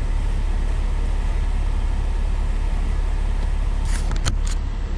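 Steady low rumble of an idling semi-truck engine, with a quick cluster of sharp clicks and rustles about four seconds in from drone packaging being handled.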